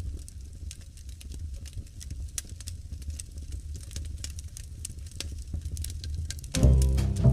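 Wood fire crackling, with frequent sharp pops over a low steady rumble. About six and a half seconds in, music with deep plucked bass notes comes in.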